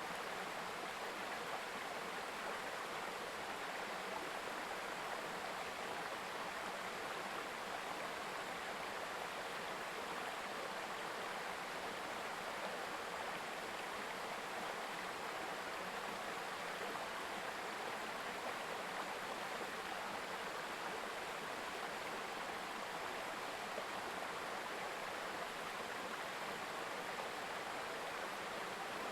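Mountain stream babbling steadily over rocks, a continuous even rush of flowing water.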